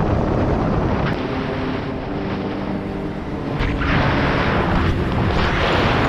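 Strong wind rushing and buffeting over the microphone, a loud gusty noise that swells about four seconds in.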